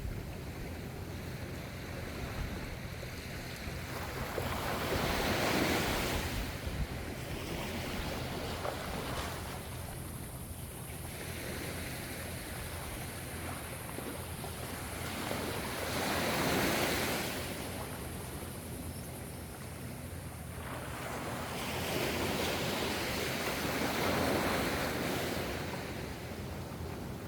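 Ocean surf: waves wash in and draw back in a steady rushing hiss over a low rumble. It swells louder three times as waves break, at about five, sixteen and twenty-three seconds in.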